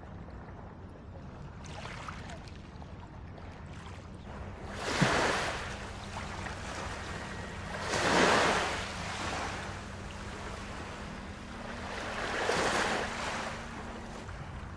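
Small Baltic Sea waves breaking and washing up on a sandy beach, three surges a few seconds apart, the middle one loudest, over a steady low hum.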